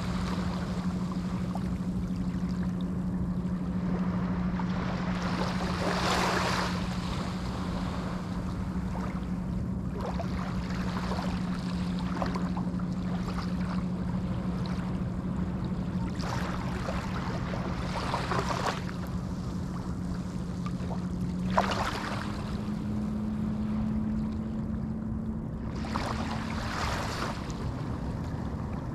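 Small Atlantic waves breaking and washing up the beach, a swell of surf every four to six seconds. Under them runs a steady low motor hum that steps up slightly in pitch about twenty seconds in.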